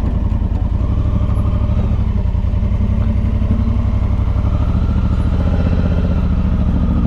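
A vehicle engine running steadily at a constant low pitch, with fast, even firing pulses and no revving.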